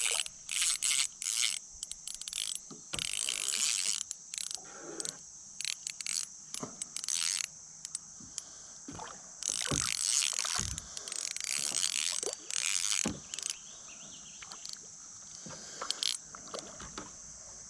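Fishing reel being cranked in short, irregular bursts while reeling in a hooked bluegill.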